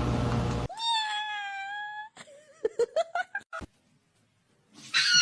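A domestic cat gives one drawn-out meow that rises slightly in pitch, followed by a quick run of short chirping sounds. Near the end a louder, high-pitched sound with several steady tones begins.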